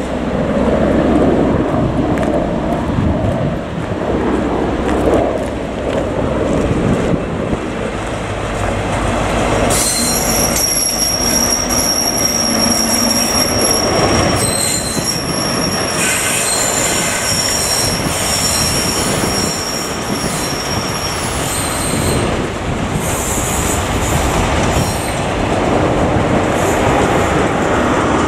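Great Western Railway Class 43 HST passing close at low speed: the leading diesel power car's rumble first, then the coaches rolling by with their wheels squealing on the curve in a steady high-pitched squeal from about a third of the way in until about three quarters through, stopping and restarting briefly a few times.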